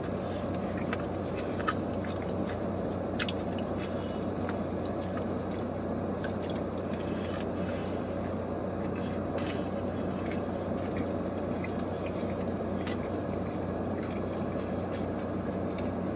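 Steady low hum inside a car cabin, with scattered small clicks of chewing and of biting into a toasted sandwich roll.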